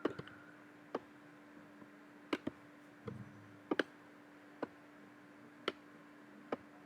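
Computer mouse and keyboard clicking: about a dozen sharp, irregularly spaced clicks, some in quick pairs, over a faint steady hum.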